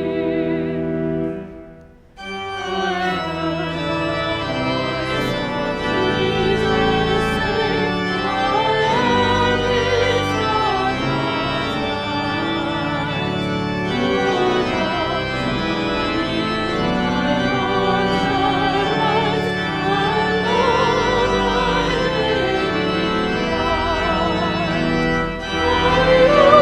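Cathedral organ music. A held chord dies away about two seconds in, and after a short break the organ starts again with held chords and a wavering melody line over them.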